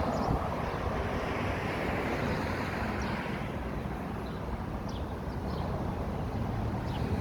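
Road traffic: vehicles passing, a steady rush of tyre and engine noise with a low rumble, loudest at the start and easing off.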